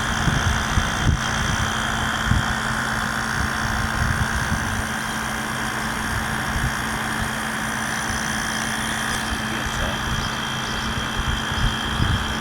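Haier 5,000 BTU window air conditioner running, with a steady rush of fan air over a low, even hum. A few faint low bumps come and go.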